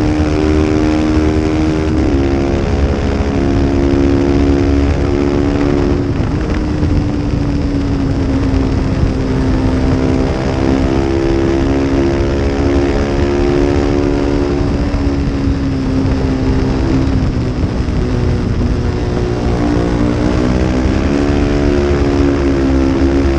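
Small-displacement race motorcycle engine at high revs under load, heard on board over heavy wind rumble. Its pitch steps down a few times with gear changes, sinks steadily for a few seconds, then climbs quickly near the end as the bike accelerates.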